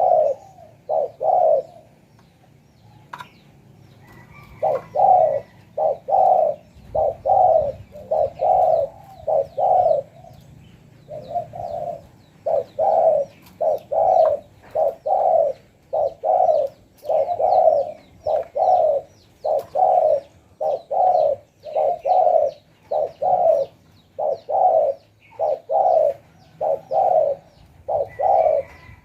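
Spotted dove cooing: a long run of repeated low coo notes, a little over one a second, broken by short pauses about two seconds in and again around the ten-second mark.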